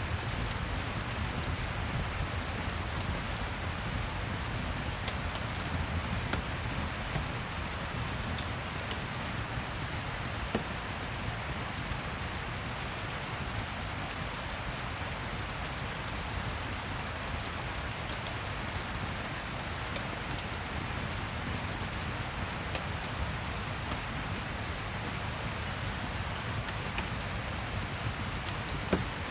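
Steady rain pattering, with scattered small crackles from a fireplace and one louder pop near the end.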